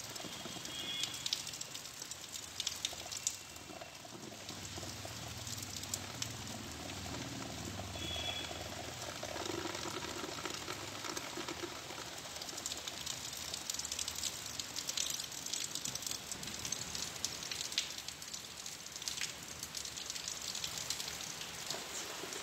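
Steady rain falling on wet ground and puddles, a continuous hiss with dense pattering of drops.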